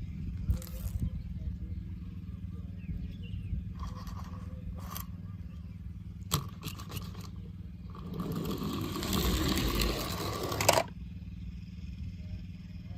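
Toy cars being handled and pushed along a surface: a few short scrapes and rattles, then a longer, louder scrape that stops abruptly, over a steady low hum.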